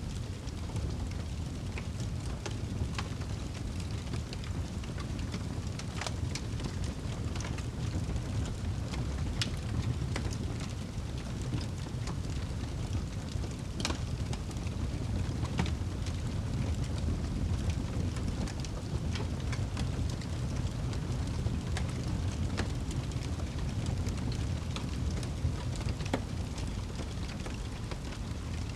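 Fireplace fire burning with a low, steady rumble and scattered sharp crackles and pops.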